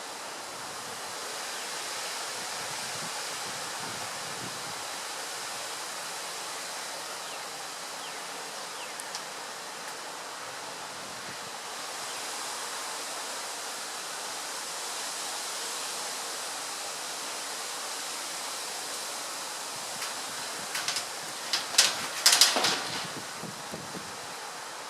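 Strong wind rushing through tree foliage as a steady hiss, swelling and easing slightly with the gusts. Near the end comes a brief cluster of sharp clicks or knocks, louder than the wind.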